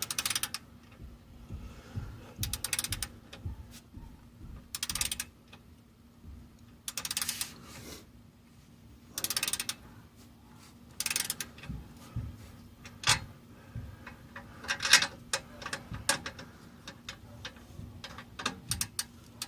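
Socket ratchet wrench tightening exhaust clamp nuts: bursts of rapid clicking about every two seconds, each one a swing of the handle. In the later part the clicks come shorter and more scattered.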